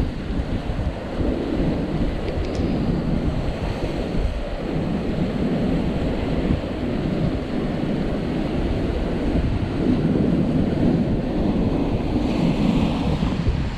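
Strong wind buffeting the microphone as a dense, uneven low rumble, with rough surf after a typhoon.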